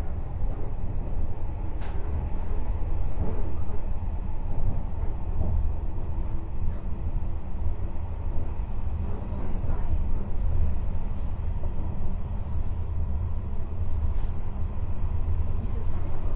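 JR West 103 series electric commuter train running, heard from inside its KuHa 103-200 driving trailer car: a steady low rumble on the rails, with a sharp click about two seconds in and another near the end.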